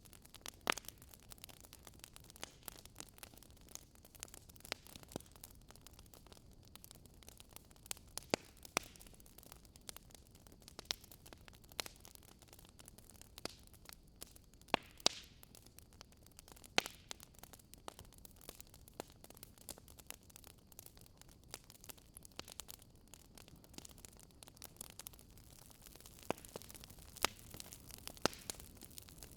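Wood fire crackling gently in a fireplace: sharp, irregular pops and snaps over a soft steady hiss.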